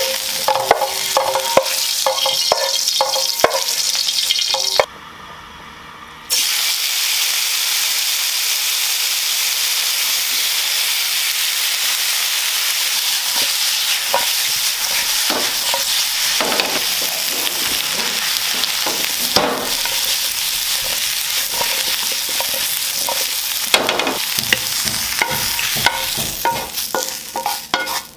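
Food sizzling in hot oil in a pan, with a utensil stirring and scraping against the pan in scattered clicks. The sizzle drops away briefly about five seconds in, then comes back steady.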